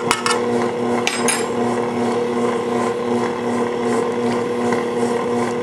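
Electric mixer running steadily, its motor giving a constant hum while it mixes the biscuit dough, with a few sharp clicks near the start and about a second in.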